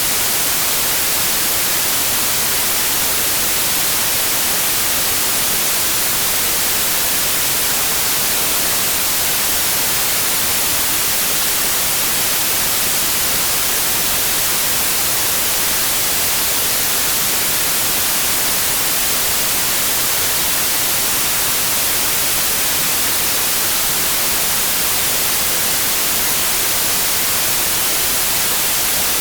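Continuous white noise: an even, steady hiss weighted toward the high frequencies, with no change in level and no tones or events in it.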